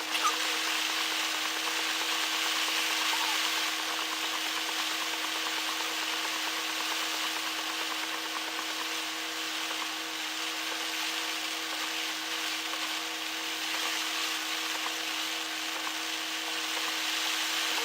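Car engine idling steadily with an even hum, under a constant hiss.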